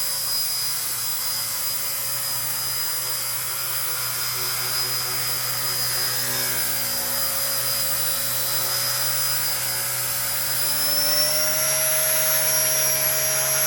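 Small electric RC ERA 1/48 scale Huey helicopter hovering, its motor whining steadily over the buzz of the rotor blades. About ten and a half seconds in the whine rises slightly in pitch and gets a little louder as the helicopter strains at its lifting limit on a weak battery.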